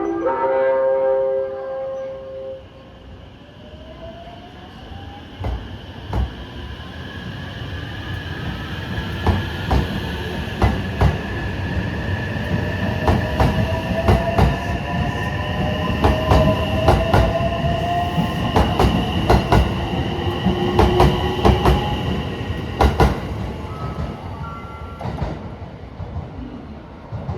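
A station chime melody ends about two seconds in, then an electric limited express train runs along the platform: rail-joint clicks, a rumble that builds and fades, a slowly rising motor whine and a steady high squeal.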